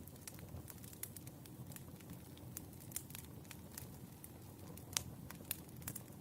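Wood fire crackling: irregular small pops and snaps over a low, steady rumble of burning, with one sharper pop about five seconds in.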